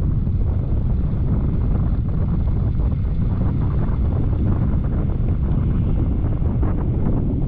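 Wind buffeting the microphone of a camera on a moving motor scooter, with the scooter's engine and road noise running steadily beneath.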